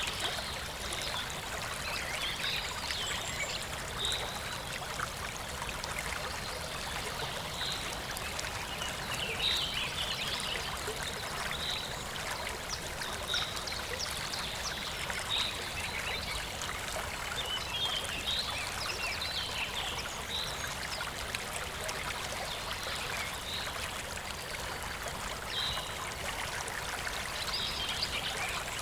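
Clear shallow stream flowing and trickling steadily over stones. Short, high chirping notes come every second or two over the water.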